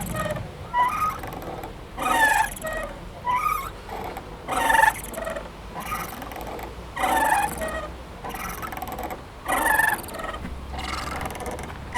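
Playground swing creaking back and forth: short, pitched, metal-on-metal squeaks from its hangers or chains, the louder ones coming about every two and a half seconds with weaker squeaks in between.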